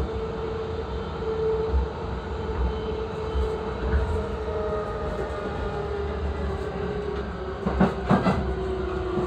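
Running sound of a JR East E233 series 3000 electric commuter train, heard from inside the car: steady rumble with a held motor whine that sinks a little in pitch near the end. Near the end come two sharp clacks of the wheels over a rail joint.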